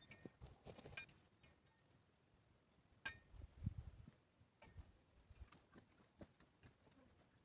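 Faint, scattered clicks and light knocks, with a dull low thump about three and a half seconds in.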